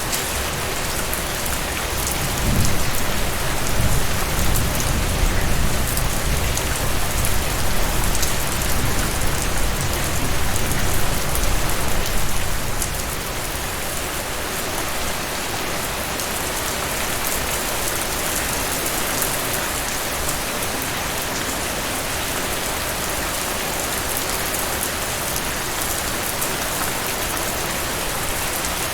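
Heavy rain falling in a steady dense hiss. A deep rolling rumble builds about two seconds in and fades out around the middle.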